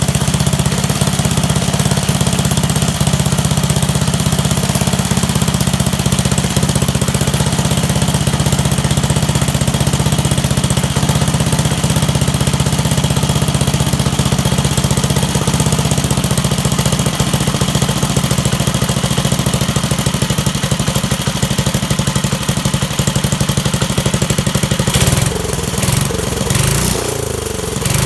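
Small single-cylinder mini bike engine running steadily at idle while its carburetor is being tuned. Near the end a few sharp knocks come through and the engine note changes.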